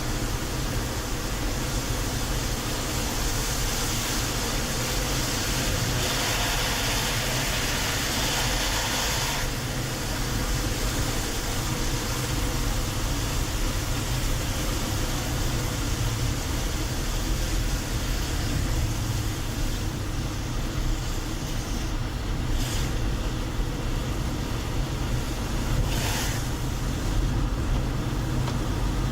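Car being driven, heard from inside: a steady low rumble of engine and tyre noise. A higher hiss joins about a second in and drops away about nine seconds in. Two short swishes come near the end.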